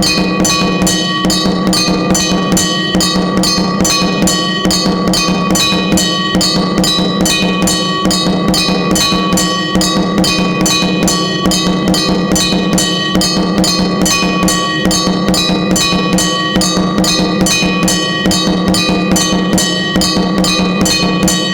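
Raja Melathalam HD automatic temple drum bell machine playing. It beats its drum in a fast, even rhythm of about three strokes a second, with a bell ringing steadily over it.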